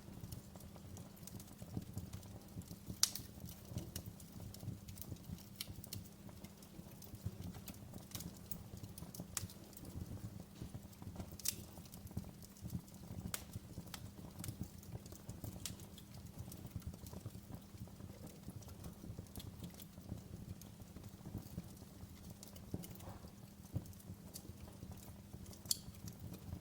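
Wood fire crackling in a fireplace: irregular sharp pops and snaps, the loudest about three seconds in, over a steady low rumble.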